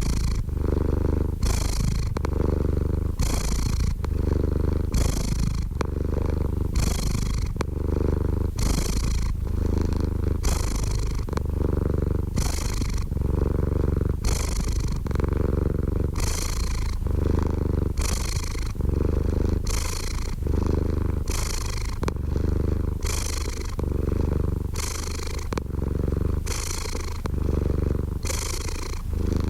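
Domestic cat purring steadily, close up: a continuous low rumble that swells and fades in a regular rhythm with each breath in and out.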